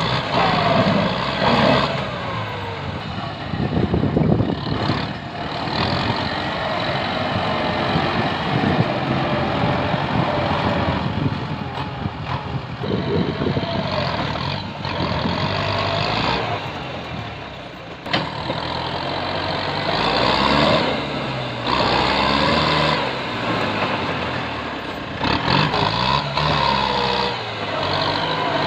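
Kubota M8540 tractor's diesel engine working under heavy, changing load, its pitch rising and falling again and again, with rough noisy stretches over the engine sound.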